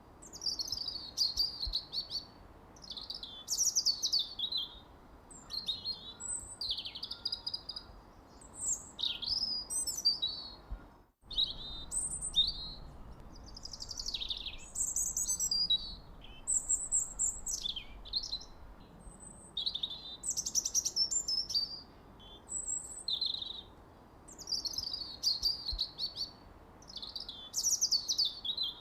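Songbirds chirping continuously, with quick high calls following one another closely over a faint steady background hiss. There is a momentary break in the sound about eleven seconds in.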